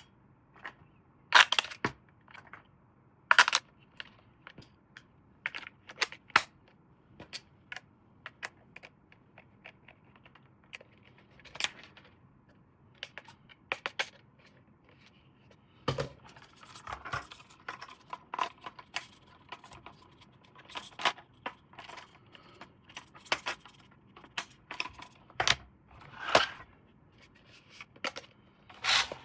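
Plastic toy parts and packaging handled up close: irregular clicks and taps, with two sharper clacks in the first few seconds and more continuous rustling and scraping from about halfway through.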